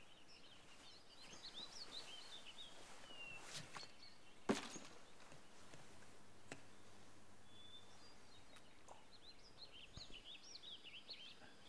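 Small songbirds chirping and twittering in scattered bursts over quiet forest ambience, busiest in the first few seconds and again near the end. A single sharp click or knock about four and a half seconds in is the loudest sound.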